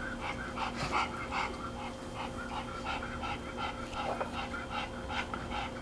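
A puppy panting quickly, short rhythmic puffs about four a second, over a faint steady electrical hum.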